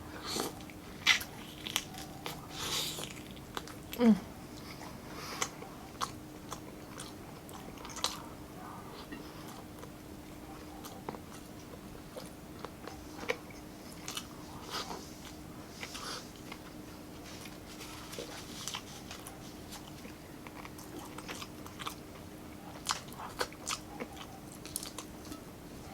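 Close-up chewing and biting of grilled chicken, with irregular wet smacking clicks and crunches. Under it runs a faint steady hum, and a short falling tone comes about four seconds in.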